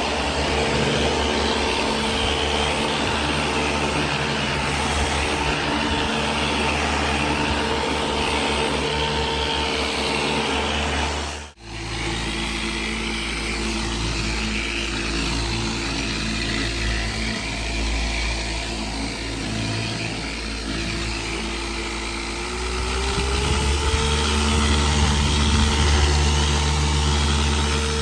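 A steady mechanical hum, cut off abruptly about eleven seconds in and replaced by a deeper hum whose pitch rises slightly near the end.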